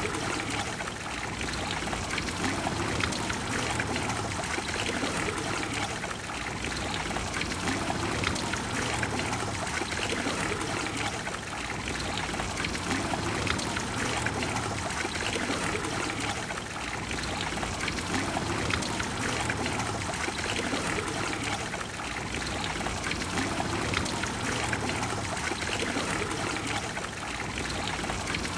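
Trevi Fountain's water flowing and falling in a steady, even rush.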